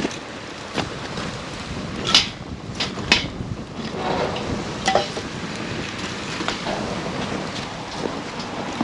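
Wood campfire burning: a steady rushing hiss of flame with scattered sharp crackles and pops of burning wood, the loudest pops about two to three seconds in.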